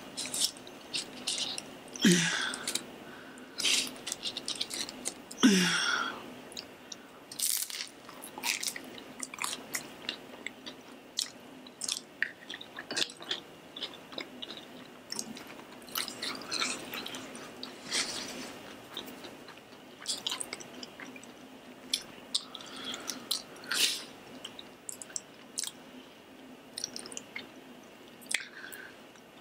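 Close-up chewing and crunching of a fried shrimp spring roll: many crisp crunches and wet mouth sounds. Two short falling vocal sounds from the eater come a few seconds in.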